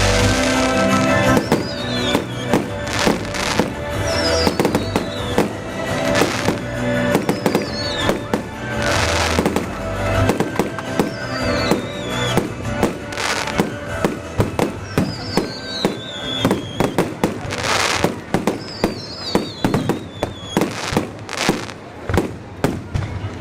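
Fireworks display: many sharp bangs and crackles from bursting shells and firecrackers, with several larger bursts spread through, over music playing.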